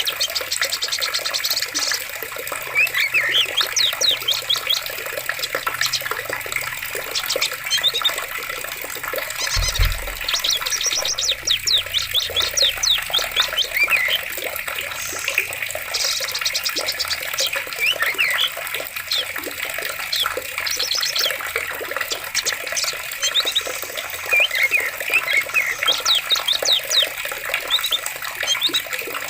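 Steady flowing water in a forest, with many birds chirping throughout and bursts of rapid trills now and then. There is a brief low thump about a third of the way in.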